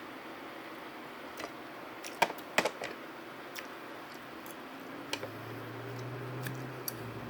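Scattered light clicks and taps of tableware and food containers being handled, the loudest pair about two seconds in. A low steady hum comes in about five seconds in.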